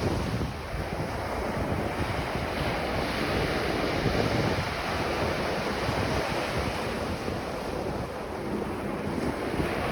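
Ocean surf washing onto a beach, a continuous hiss of breaking waves that swells and eases every few seconds, with wind rumbling on the microphone.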